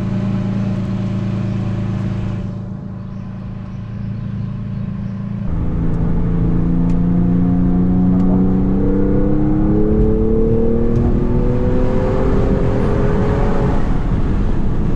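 A vehicle engine running at a steady idle, then, after an abrupt change about five seconds in, the vehicle accelerating, its engine note rising slowly and steadily for several seconds.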